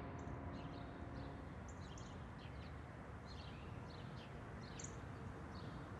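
Small birds chirping in short, scattered calls over a steady low outdoor hum, with the last held chord of soft music fading out in the first second and a half.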